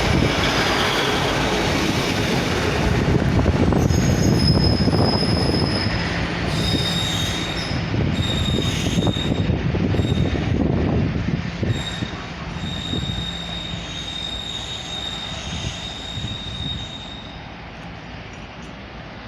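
Class 156 diesel multiple unit moving through the station, its wheels squealing on the rails in high, on-and-off tones over the low running noise. The sound fades steadily over the last few seconds.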